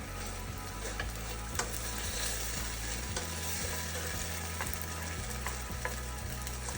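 Chicken wings sizzling in a pan with a steady hiss while a utensil stirs them, its scattered clicks and taps against the pan heard several times.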